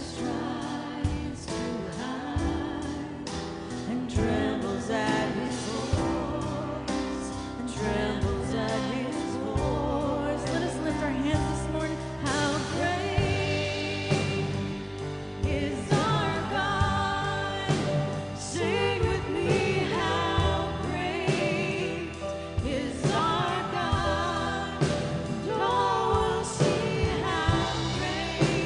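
A live church worship band and singers performing a contemporary worship song, with wavering sung melody over steady drums and accompaniment.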